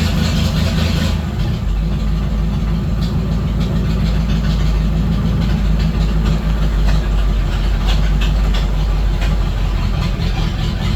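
1951 Ford F3's 8BA flathead V8 running steadily on a cold start, just after catching following months without being run.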